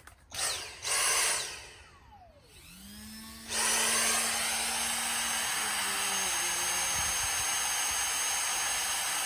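Dremel rotary tool with a wire brush attachment cleaning out exhaust header bolt holes. It gives two short bursts, then spins up about three seconds in and runs steadily.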